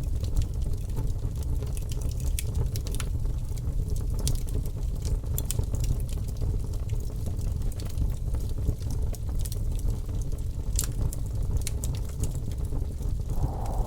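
Wood fire crackling in a fireplace: a steady low rumble of flames with scattered sharp pops and crackles. Near the end a higher, hissing sound comes in over it.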